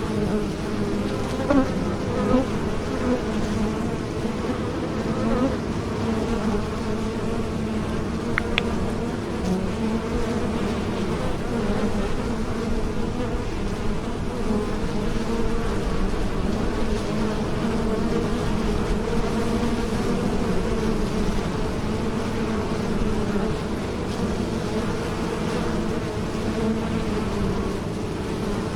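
Bees buzzing in flight, a steady, dense, low hum of wingbeats with no pauses.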